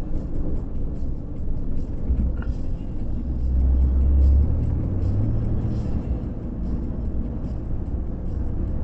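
A moving car's engine and tyre noise heard from inside the cabin: a steady low rumble that swells about three to four seconds in.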